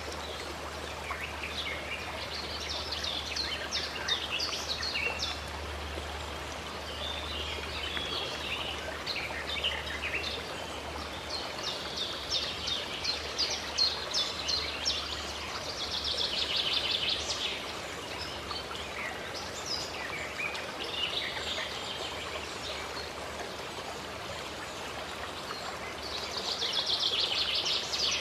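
Birds singing and calling over the steady rush of flowing water, the calls coming as quick chirps and rapid trills, thickest about halfway through and near the end.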